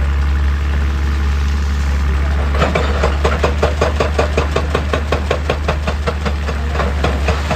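Excavator's diesel engine running with a steady low drone. About two and a half seconds in, a fast, regular knocking of about five or six strokes a second starts and keeps going.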